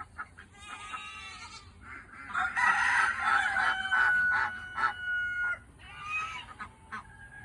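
A rooster crows once, a long loud call through the middle of the clip. Shorter calls from other poultry come before and after it.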